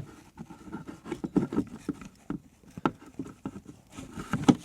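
Irregular light wooden knocks and taps as parts of a wooden camp cook box are handled and slotted into place, with a few sharper knocks near the end.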